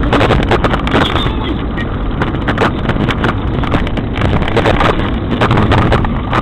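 Vehicle noise picked up by a car dashcam's microphone: a steady rumble and rush with a dense run of short clicks and knocks.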